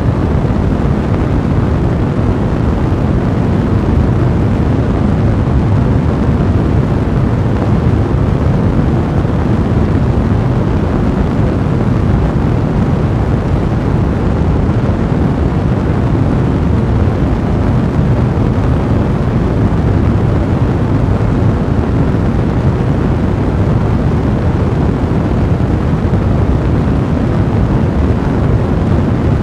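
A blazing fire burning steadily, a dense low rushing rumble with no separate pops standing out.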